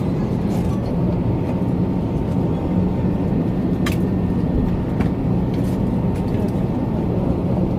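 Steady low rumble of airliner cabin noise, with a faint steady tone and two faint clicks a second apart about midway.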